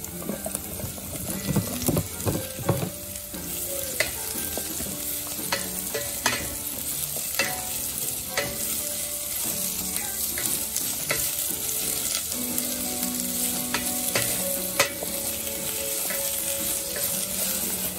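Pickled mustard greens tipped into hot oil with frying garlic and chilli in a stainless steel pot, sizzling, with a louder flurry as they go in near the start. They are then stirred with a wooden spatula, whose strokes tap and scrape the pot about once a second.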